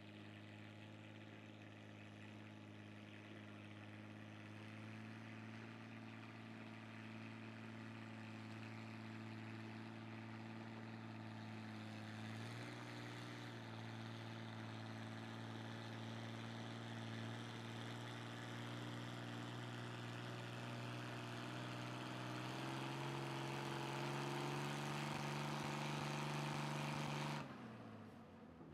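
Engine of a pulling vehicle under load, its steady note stepping up in pitch twice as it grows louder, then falling away suddenly near the end.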